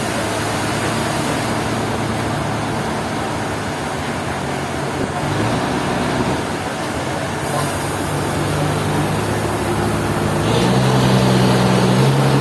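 Sawmill machinery running steadily: a continuous noisy hum with a low drone underneath that shifts pitch twice and grows slightly louder near the end.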